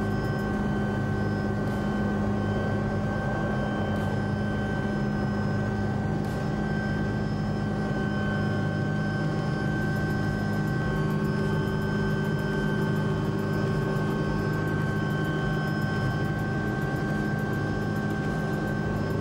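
Helicopter engine and rotors running with a steady, unchanging drone and a constant high whine.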